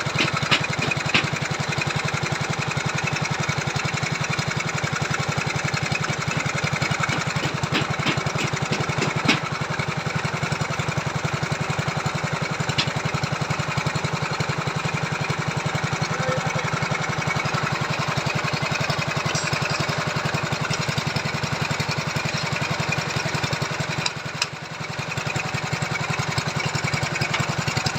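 Small engine of a machine earth auger for boring foundation holes, running steadily, with a few sharp knocks near the start and a short drop in level about three-quarters of the way through.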